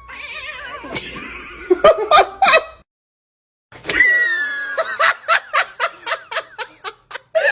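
A person laughing: a few short bursts of laughter, a short break, then a long run of quick giggles.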